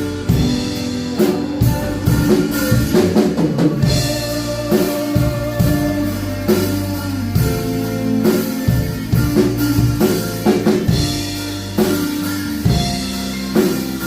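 A band playing an instrumental passage of a song, the drum kit keeping a steady beat under held chords and bass.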